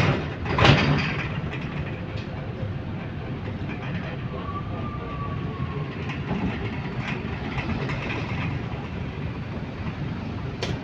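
Steady running noise of a bus under way, heard from on board, with a sharp loud knock or clunk just under a second in and a faint short whistle a few seconds later.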